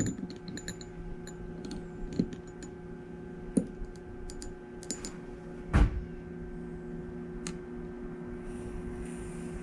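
Scattered small clicks and taps from handling a bottle of model-train smoke fluid and a model steam locomotive, with one louder knock a little before six seconds in, over a steady electrical hum.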